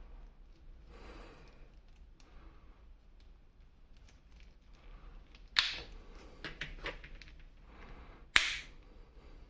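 Plastic toy packaging and parts being handled with light rustling and clicking, broken by two sharp, loud plastic snaps about three seconds apart.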